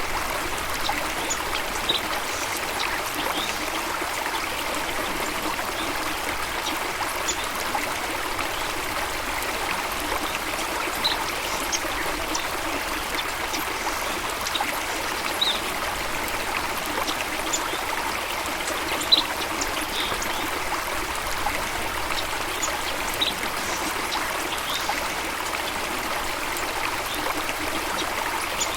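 Stream water flowing steadily. A few brief, high bird chirps sound here and there, the sharpest about 19 seconds in.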